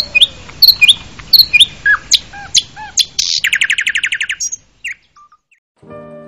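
Songbird singing a series of sharp chirps, then a fast trill of about a dozen notes in a second, ending with a few last notes. Soft sustained music chords begin near the end.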